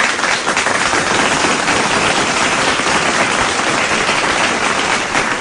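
Applause: dense, steady clapping from many hands, welcoming the end of a recitation.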